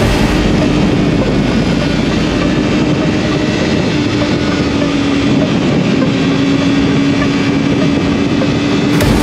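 2005 Yamaha YZF-R6's inline-four with a Yoshimura exhaust running under way at a fairly steady engine speed, its pitch sagging slightly and rising again near the end, inside a steady rush of wind noise.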